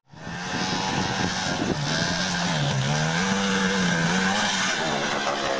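Motorcycle engine running hard, its pitch dipping and rising again midway, over a steady loud hiss.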